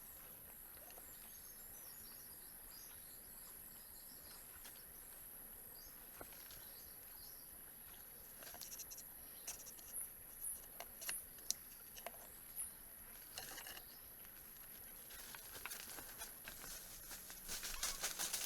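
Quiet outdoor ambience with a faint, steady high-pitched whine. Scattered small clicks and a few brief chirps come about halfway through, and a denser run of crackling clicks builds over the last few seconds.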